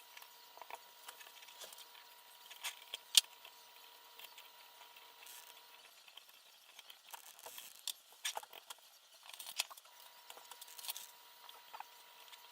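Scattered small clicks, taps and rustles of small parts being handled during quadcopter assembly, with one sharper click about three seconds in. A faint steady whine sits underneath.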